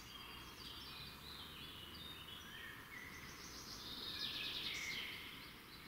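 Several small songbirds singing at once: many short, overlapping chirps and trills, busiest and a little louder about two-thirds through, over a faint steady outdoor hiss.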